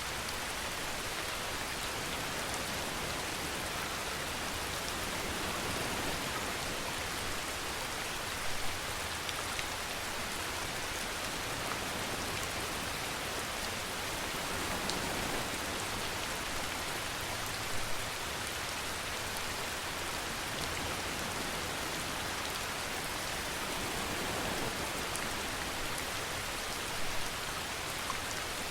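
Steady rainfall, a dense even hiss of rain on surfaces, with a few brief louder patters of drops.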